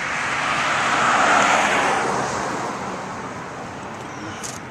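A car passing by on the street: tyre and engine noise swelling to its loudest about a second and a half in, then fading away.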